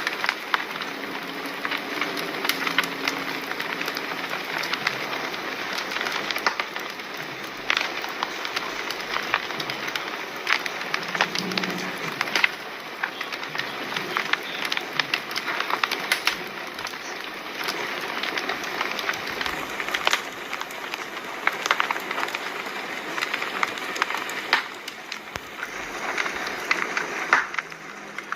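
Wood fire crackling, with frequent irregular sharp pops and snaps over a steady hiss.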